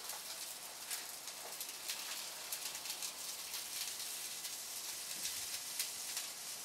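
Peppers sizzling in hot oil on a grill: a steady hiss with scattered small crackles.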